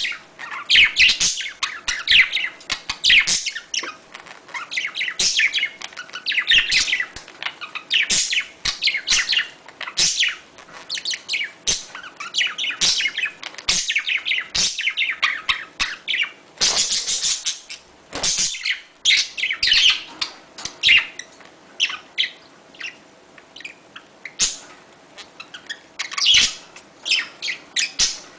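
Budgerigars chirping and warbling in quick, overlapping bursts: the mating chatter of budgies, with one harsher call about 17 seconds in.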